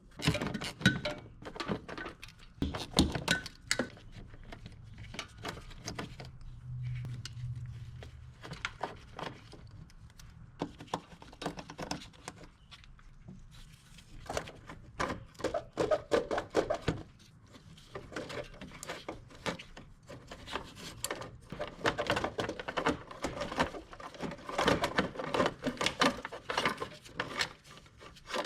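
Irregular clicks, knocks and light metallic rattles of tools and parts being handled, busy at first, sparse for a few seconds in the middle, then busy again.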